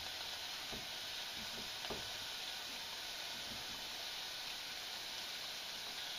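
Onions and diced Hokkaido pumpkin sautéing gently in olive oil in a pot: a steady, soft sizzle, with a couple of faint clicks from a knife peeling ginger.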